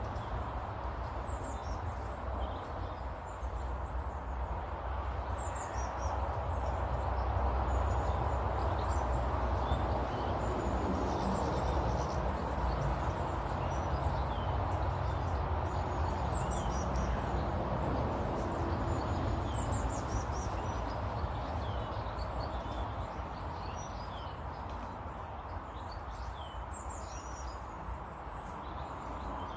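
Small garden birds chirping and calling, with short high chirps every second or so, over a steady low background rumble that grows louder in the middle.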